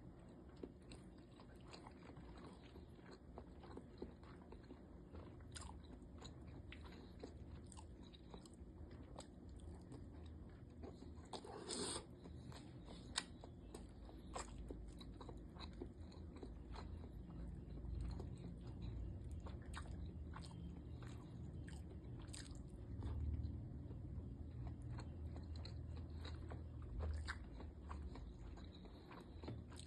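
A person chewing and eating siomai close to the microphone, with many short wet mouth clicks and smacks over a low steady hum, and a louder bite about twelve seconds in.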